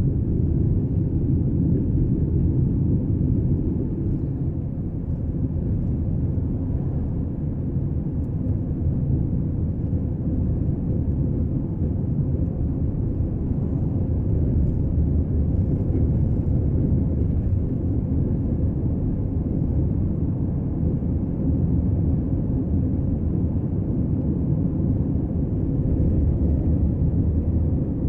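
Steady low rumble of a car driving along a road: tyre and engine noise heard from inside the moving vehicle.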